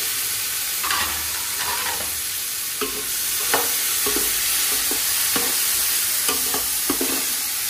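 Chopped tomatoes sizzling in hot oil with fried onions in a large metal pot, a steady frying hiss, while a metal ladle stirs them, clinking and scraping against the pot several times.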